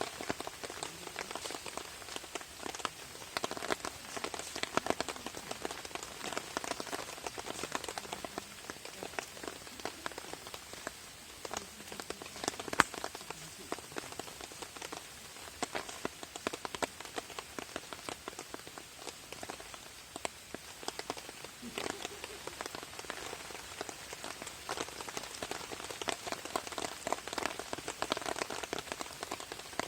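Rain pattering steadily on a camping tarp, a dense spray of small drop ticks with scattered louder sharp taps; the loudest tap comes about 13 seconds in.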